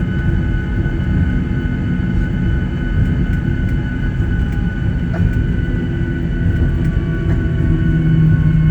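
Cabin noise of a Boeing 737-800 taxiing after landing: a steady low rumble with the engines' steady whine on top. A low hum grows stronger near the end.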